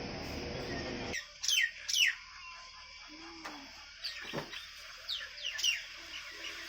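Bird calls: short, sharp chirps that slide steeply down in pitch. Two loud ones come about a second and a half in, and another quick run comes around four to six seconds in.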